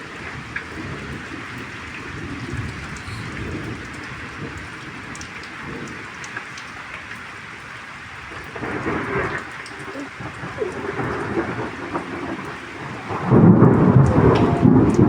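Steady rain falling, with rumbles of thunder. A brief swell comes about halfway through, and the loudest, deepest rumble of thunder sets in near the end.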